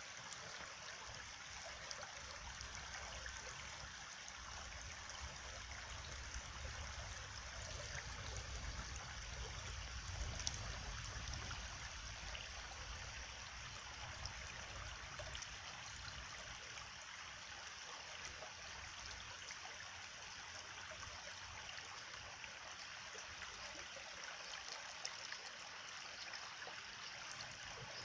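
Running water flowing steadily, like a stream.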